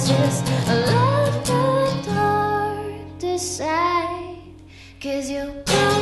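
A woman singing with guitar accompaniment, played live. Around the middle the guitar thins out under a held, rising sung phrase and the sound dips quieter, then the strumming comes back in strongly near the end.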